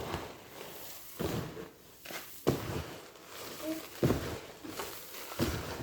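Hands mixing a dry seed-and-feed mixture for birds in a container, the grains rustling in repeated short bursts about once every second or so.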